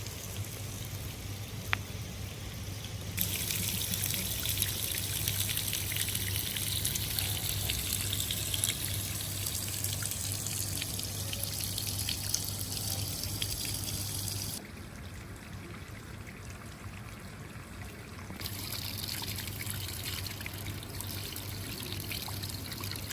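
Water trickling and running steadily, its sound changing abruptly a few times.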